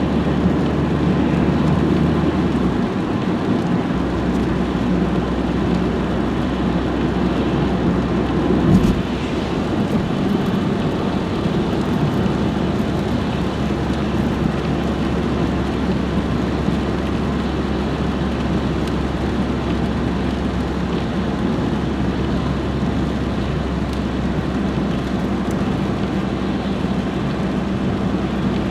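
A car being driven, with steady engine and road noise, and a single thump about nine seconds in.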